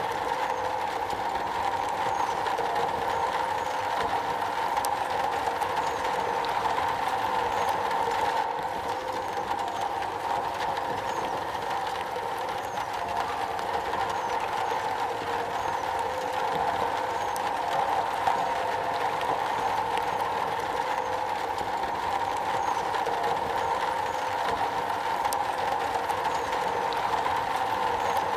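Steady rain drumming on a metal roof, an even unbroken patter.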